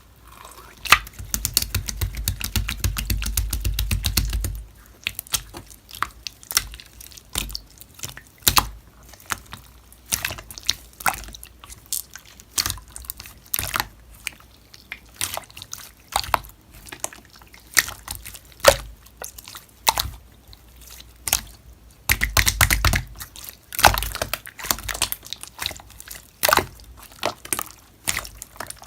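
Slime being played with by hand: a dense run of wet clicks and pops for the first few seconds, then scattered single pops and clicks, with another dense run about 22 seconds in.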